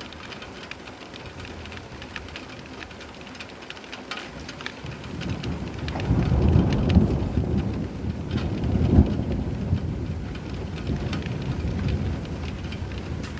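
Steady rain pattering, with a roll of thunder that builds about five seconds in, rumbles loudest for a few seconds and slowly fades.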